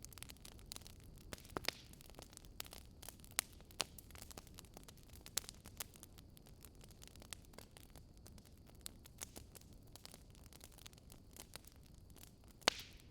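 Wood fire crackling: irregular sharp pops and snaps over a faint steady hiss, with one louder pop near the end.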